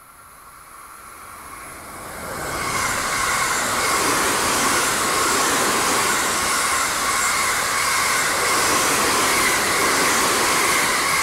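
Electric passenger train passing close by at speed: the rumble grows over the first few seconds, then holds as a steady loud rush of wheels on rail with a steady high whine over it.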